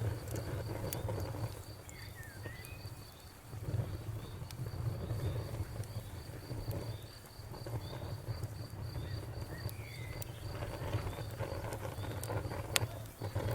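Campfire crackling with scattered sharp pops, over a low rumble that swells and fades. Crickets chirp in an even, rapid pulse, and a few short bird calls are heard.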